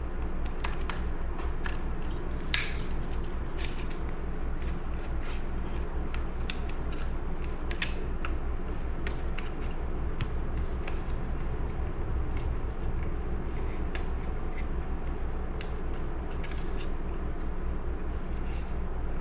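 Light, scattered clicks and taps of hand tools on small parts as screws are worked out of the oil pump of a vintage chainsaw, with one sharper click about two and a half seconds in. A steady low hum runs underneath.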